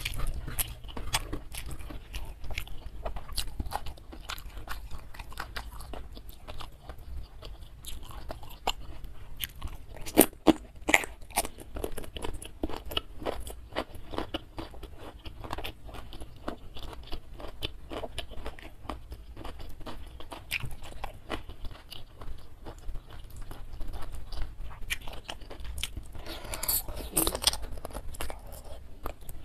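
Close-miked eating: a person chewing and crunching mouthfuls of fried catfish by hand, with many small wet mouth clicks. Louder bites come about ten seconds in and again near the end.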